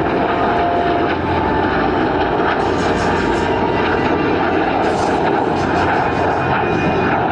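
Heritage Flight formation of an F-22 Raptor and a P-38 Lightning flying past, a loud, steady rush of jet and piston engine noise.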